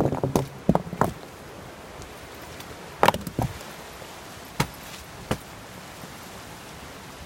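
A handful of short, sharp knocks, spaced irregularly, over a steady hiss of outdoor background.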